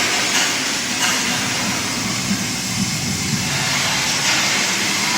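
A loud, steady engine and vehicle noise.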